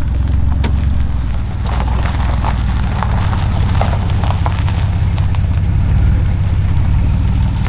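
Truck engine idling steadily, with a low, even pulsing rumble and a few light clicks and knocks over it.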